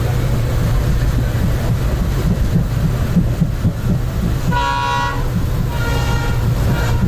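Train running with a steady low rumble. Its horn sounds twice, about four and a half seconds in and again more faintly a second later.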